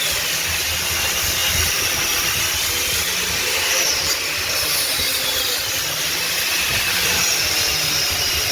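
Steady hissing noise of metal fabrication work, with faint high whines that drift down in pitch near the start and again about five seconds in.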